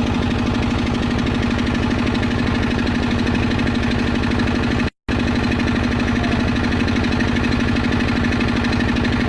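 Small single-cylinder engine running steadily with a fast, even knocking beat. The sound cuts out for an instant about five seconds in, then resumes unchanged.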